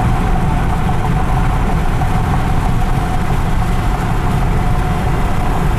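Steady road noise inside a moving car at highway speed: engine and tyre drone, strongest in the low end, with a faint steady hum.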